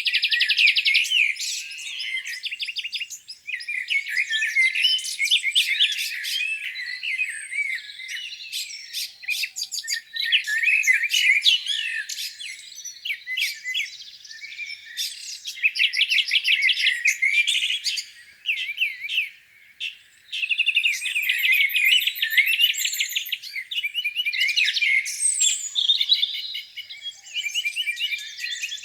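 Several songbirds singing at once: overlapping chirps, whistles and rapid trills that rise and fall, with a brief lull about two-thirds of the way through.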